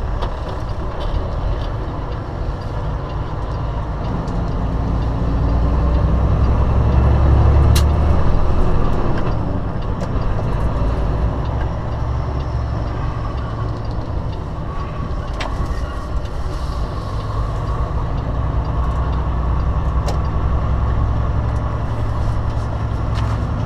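Semi-truck's diesel engine running, swelling louder for a few seconds near the middle, with a few sharp clicks over it.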